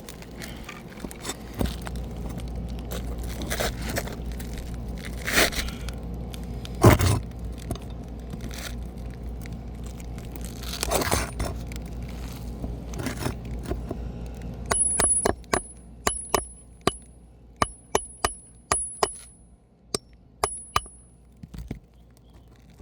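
Metal roofing tool scraping and prying under asphalt shingles to get at a roofing nail, with irregular cracks and a few louder knocks. Later comes a quick run of sharp metallic taps with a high ring, about three a second, that stops a little before the end.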